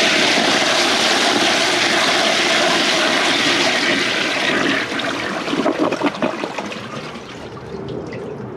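1999 Western Pottery Clinton toilet flushing from a high bucket tank: a loud rush of water that holds for about five seconds, then turns patchier and dies down to a quieter run of water over the last few seconds. It is a very violent flush.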